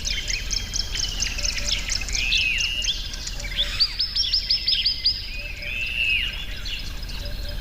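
Wild birds calling: an arching, slurred call repeats about every two seconds, mixed with fast runs of high chirps, and a rapid series of sharp notes comes about four seconds in.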